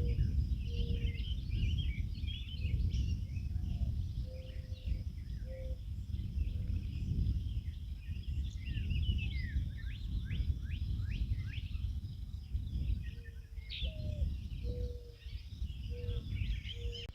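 Outdoor ambience: many birds chirping with quick falling calls, over a steady low rumble of wind noise. A short, low whistled note repeats now and then, some notes stepping up in pitch at the end.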